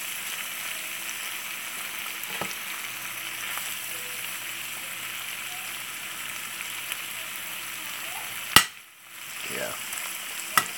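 Diced sausage, potatoes, onions and peppers sizzling steadily in a hot skillet while being stirred with a metal spoon. A sharp click about three-quarters of the way through is the loudest moment, and a second click comes near the end.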